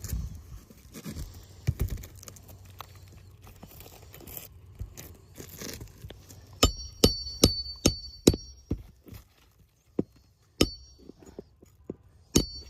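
Light rustling and handling, then a quick run of sharp metallic clinks with a brief high ring, about six in a second and a half, followed by two or three more single clinks: small metal pieces being struck or knocked together.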